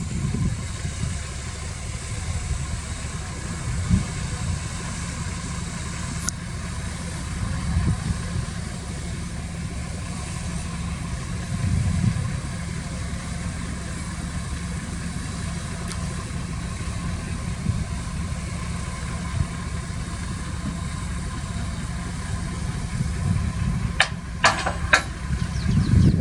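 Diesel engine of heavy earthmoving equipment running steadily, with a few sharp clicks near the end.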